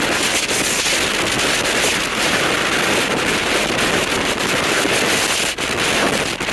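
Strong tornado wind roaring over the microphone, a loud, steady rush of noise with crackling buffets.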